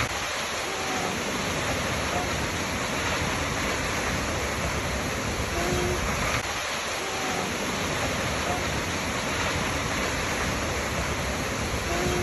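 Waterfall: a steady, unbroken rush of falling water, with faint short low tones recurring about every six seconds.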